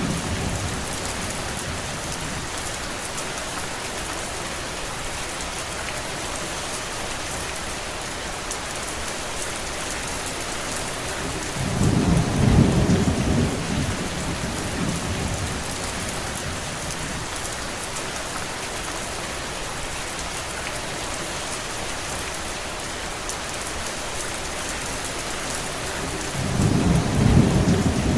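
Steady rain falling, with two brief low rumbles, one about halfway through and one near the end.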